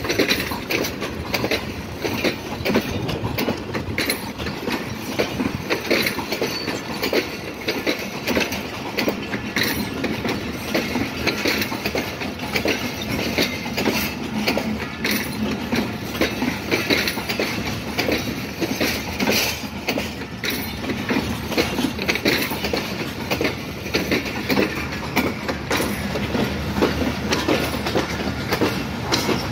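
Passenger coaches of a departing train rolling slowly past, their wheels clicking steadily over the rail joints.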